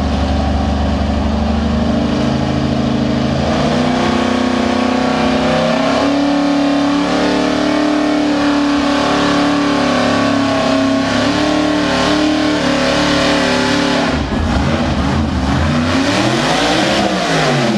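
Pulling truck's engine running hard at high revs under load, its pitch slowly climbing. About fourteen seconds in it drops away, then revs up and back down once near the end.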